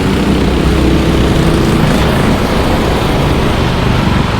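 Racing kart engines running on the track, a loud steady drone.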